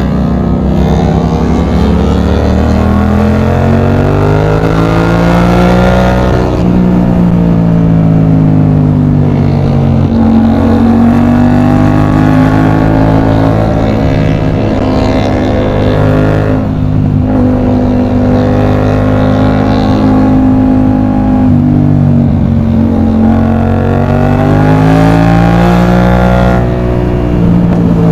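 Yamaha MT-07's 689 cc CP2 parallel-twin engine through an aftermarket exhaust, heard from the rider's seat while riding. The revs climb for several seconds, drop back, hold steady for a long stretch, then climb again and drop near the end.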